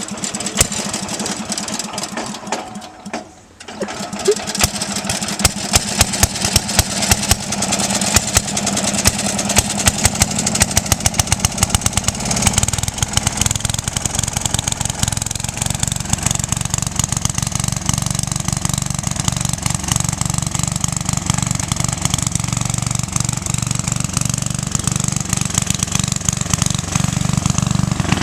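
1966 Simplicity 2010 Landlord's rebuilt 10-horsepower Briggs & Stratton single-cylinder engine starting, faltering about three seconds in, then catching and running steadily with a rapid even firing beat. The deeper part of its sound grows stronger about twelve seconds in.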